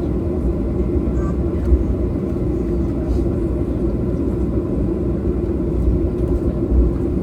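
Steady low rumble inside a Boeing 737-800's cabin from its CFM56 jet engines and airflow.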